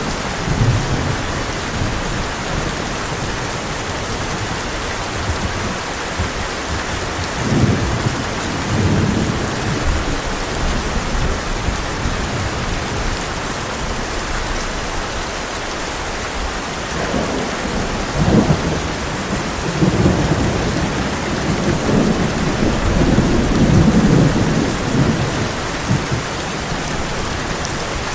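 Heavy rain drumming steadily on a tin roof, with rolls of thunder: a short rumble about a second in, another around eight seconds in, and a longer, louder roll through the last third.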